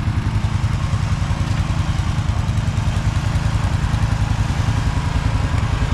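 Tow vehicle's engine running at low revs with a steady low throb, as it backs a dump trailer.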